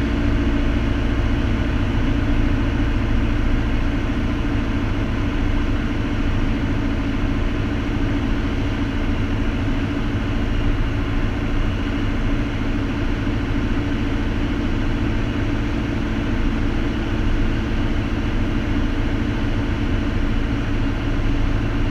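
Piper Cherokee's single piston engine and propeller running steadily at climb power, heard from inside the cockpit as a constant drone.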